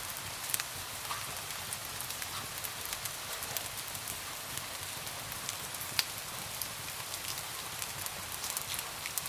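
Steady rain hiss against window glass, with a wood fire crackling over it in scattered sharp pops; the loudest pops come about half a second in and at about six seconds.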